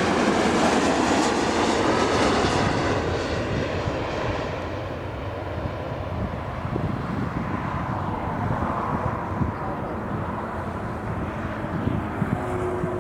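Jet airliner passing close by, loud at first and fading away after about four seconds to a low rumble.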